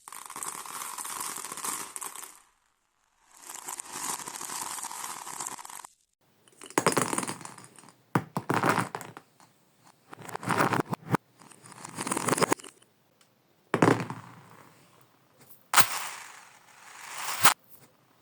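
Marbles rolling and clattering along a marble run, played in reverse: rattling runs separated by short silences, several of them swelling up and then cutting off abruptly.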